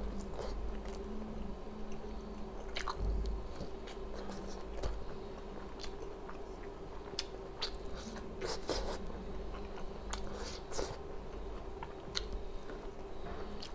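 Close-up chewing and biting of grilled shashlik meat, with many short wet clicks and smacks and an occasional crunch.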